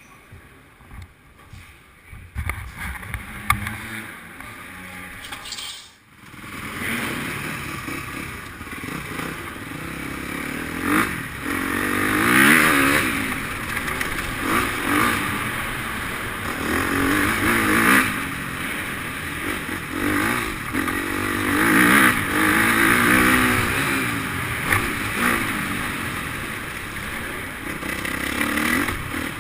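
Motocross bike engines revving up and down, the pitch rising and falling every couple of seconds; this starts about six seconds in, after a quieter stretch with a few knocks.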